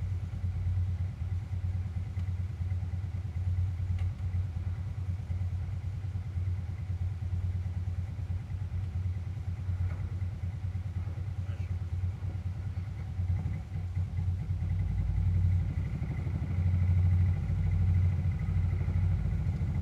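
1992 Suzuki QuadRunner 300's single-cylinder four-stroke engine idling cold on full choke, getting louder about two-thirds of the way through.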